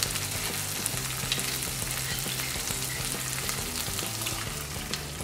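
Tomato purée frying in oil and butter in a pan, sizzling and crackling steadily, while a thin milk-and-spice paste is spooned in from a bowl with light scrapes and clicks of the spoon.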